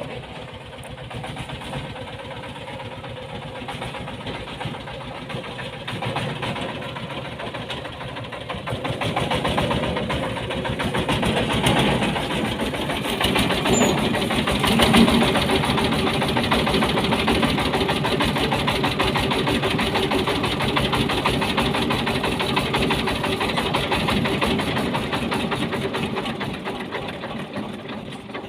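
Diesel engine of a home-built mini dump truck running with a rapid, even chugging. It grows louder from about nine seconds in, stays loud, and eases off near the end.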